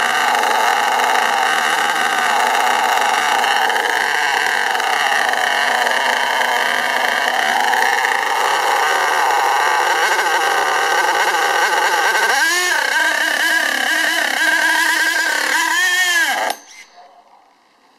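STS D30M nitro RC engine running at high revs with the throttle closed, a steady high whine: it is running away with itself. Near the end its revs dip and recover twice, then it cuts out abruptly as the brake is jammed on to stop it.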